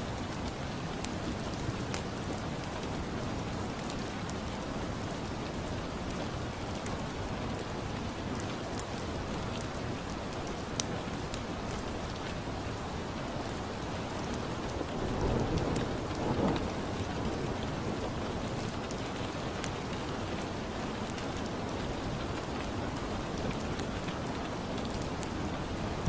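Steady rain falling, with scattered sharp clicks, and a low rumble of thunder swelling about fifteen seconds in.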